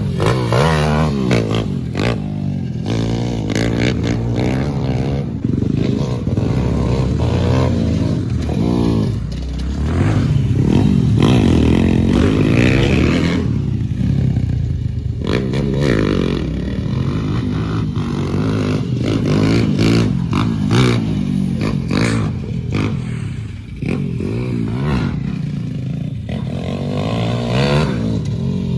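Dirt bike engines revving up and easing off again and again as the bikes ride, with scattered knocks and clatter.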